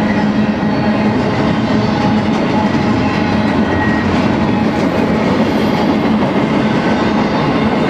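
Double-stack intermodal freight cars rolling past, with steady, loud wheel-on-rail noise and clatter over a steady low hum.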